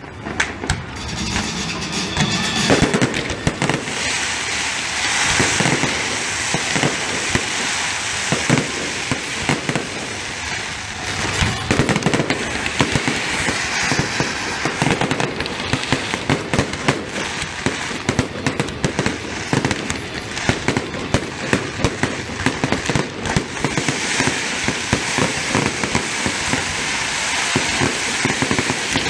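Fireworks display going off continuously: dense crackling with many sharp bangs, swelling about a second in.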